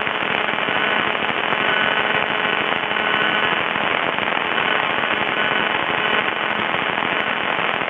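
Steady, dense crackling static on the aircraft's intercom and radio audio feed, from a radio that is crackling badly.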